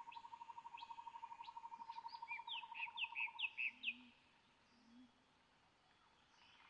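Birds chirping: a few thin high chirps, then a run of four down-slurred chirps about two and a half to four seconds in, the loudest part. Under them a steady fast-pulsing trill runs until about three and a half seconds in, followed by two soft low calls and faint quiet ambience.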